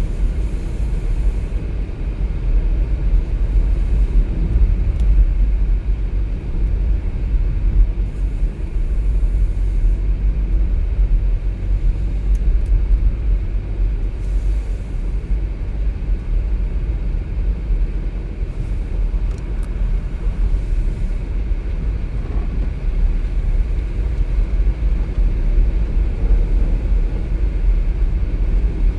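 A car driving along a road: a steady low rumble of engine and tyres on the road surface.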